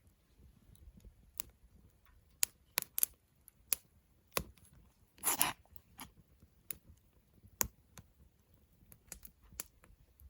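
Wood campfire crackling: irregular sharp pops and snaps, with one longer sputtering crackle about five seconds in.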